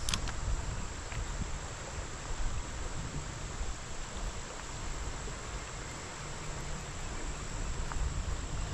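Insects, crickets or katydids, chirring as a steady high drone, over a low rumble of water or wind.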